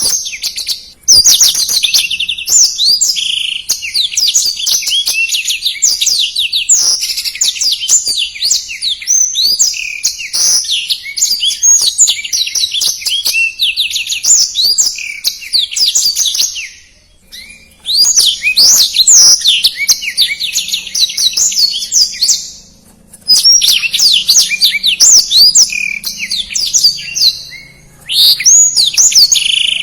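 Black-throated canary (blackthroat) singing a fast, dense, rolling song of high twittering notes in long phrases, broken by a few short pauses.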